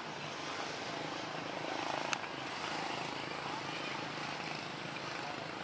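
Steady aircraft engine noise from an airliner at the airport, with a single sharp click about two seconds in.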